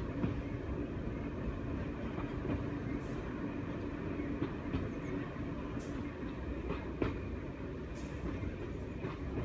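Class 101 diesel multiple unit running along the line, heard from inside the carriage: a steady low rumble of the train and wheels on rail, with a few sharp clicks scattered through it.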